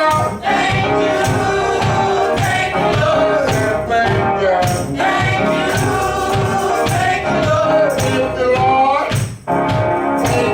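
Gospel worship song: singing over instrumental backing with a steady beat and tambourine-like jingles, briefly dropping away about nine seconds in.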